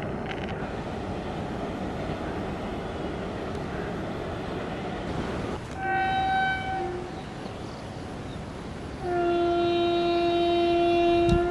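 Electric locomotive's air horn sounding a short blast about six seconds in, then a long, louder blast from about nine seconds on, over a steady rushing noise from the passing train.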